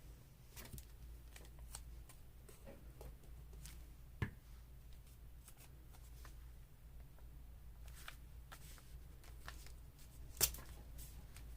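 Paper and washi tape being handled: faint, scattered rustling and light ticks, with two sharper clicks, one about four seconds in and a louder one near the end.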